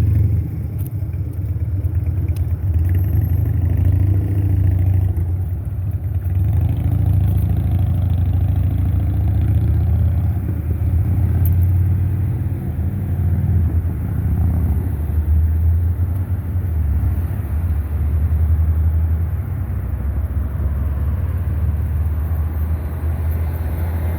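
Street traffic: cars passing on a busy road, a steady low rumble that swells and eases as vehicles go by.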